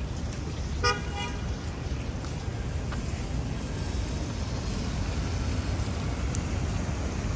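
A car horn gives one short toot about a second in, over steady low street and traffic noise.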